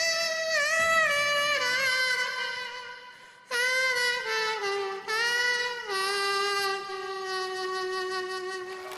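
A man playing a melody through his nose, a saxophone-like tone with one clear line of held and gliding notes. The phrase fades out about three seconds in and a new phrase starts half a second later.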